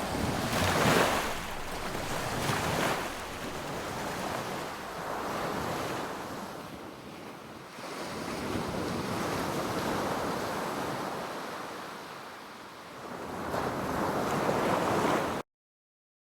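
Sea waves breaking and washing up a beach, the surf swelling and easing in several slow surges. The sound cuts off suddenly near the end.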